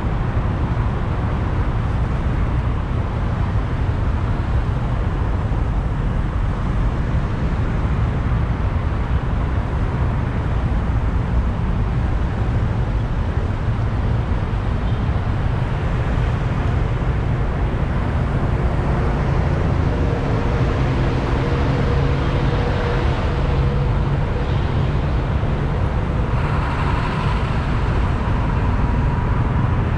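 Motorbike riding through city traffic: a steady, loud rumble of engine, road and rushing air. In the second half, a couple of steady humming tones from nearby vehicles rise above it.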